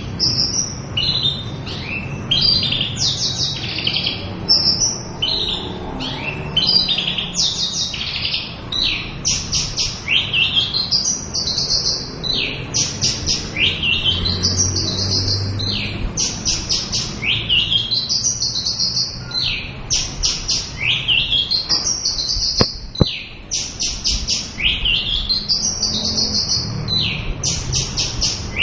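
Javan bush lark singing a continuous, varied song of rapid high-pitched trills, many phrases rising in pitch, strung together about one a second without a break.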